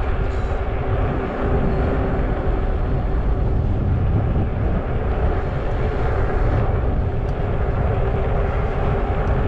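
Wind buffeting the microphone of a handlebar-mounted camera on a moving electric fat-tire folding bike: a dense, steady low rumble with a steady drone running underneath.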